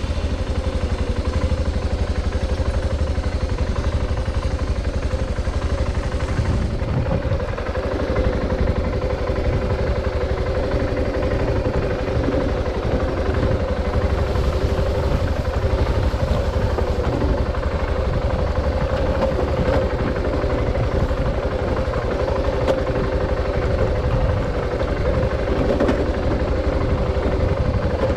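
Adventure motorcycle engine running steadily just after starting up, a low rumble with a steady hum.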